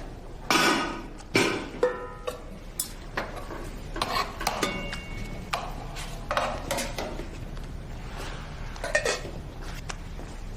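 Dishes and utensils clinking and clattering as they are handled: about a dozen separate knocks and clinks, a few of them ringing briefly.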